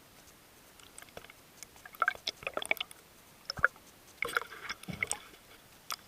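Irregular sharp clicks and crackling, in two clusters about two and four seconds in, with a few single clicks between them.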